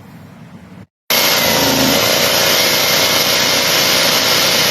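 Honda GX690 V-twin engine running steadily, starting abruptly about a second in. It is running again after a new fuel pump and fuel filter cured a no-start fuel problem.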